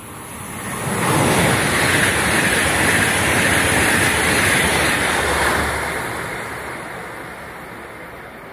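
Italo high-speed electric train passing at speed close by: a rushing noise of wheels on rail and air that builds over about a second, holds for several seconds, then fades away as the train recedes.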